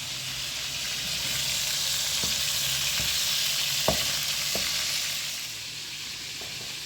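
Kebab kobideh sizzling as it cooks: a steady hiss that swells louder for a few seconds in the middle, with a few light clicks.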